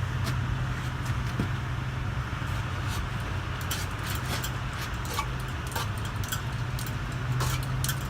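1977 Codep TC series ceiling fan running, a steady low motor hum with scattered light clicks and ticks.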